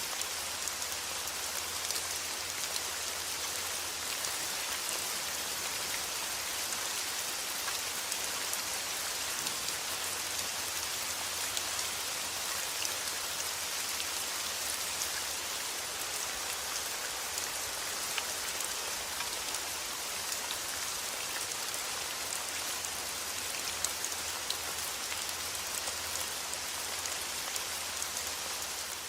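Steady rain falling, an even hiss with scattered individual drops ticking, over a steady low rumble.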